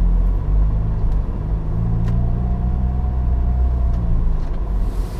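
The 2013 Dodge Dart's turbocharged 1.4-litre four-cylinder engine running with a steady low drone. A faint steady whine sits on top of it for a couple of seconds in the middle.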